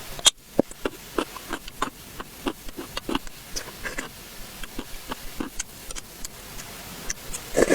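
Close-miked mouth sounds of someone eating: irregular wet smacks and clicks of chewing, with a sharper smack just after the start and a louder cluster near the end.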